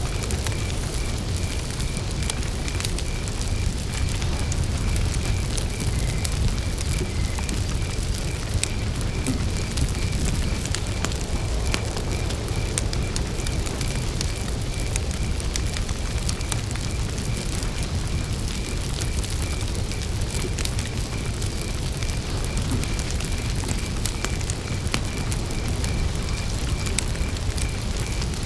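Wood campfire burning, with a low rumble of flames and frequent small crackles and pops. A cricket chirps steadily on a high, evenly pulsed note.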